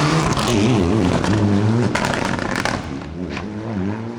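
Rally car engine revving hard, its pitch rising and falling several times as the driver works the throttle through a stage, with a few sharp cracks mixed in; it eases off near the end.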